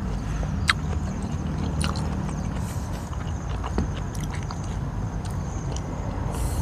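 A person chewing food close to the microphone, with a few sharp mouth clicks, over a steady low rumble.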